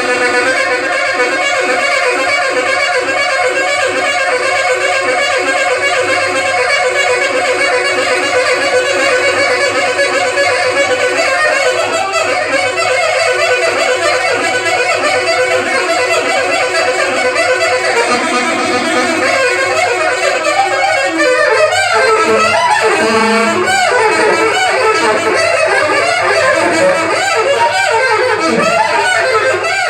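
Live band playing an instrumental passage, a wind instrument carrying the melody. About two-thirds of the way in, the lead line grows busier, with quick bending runs.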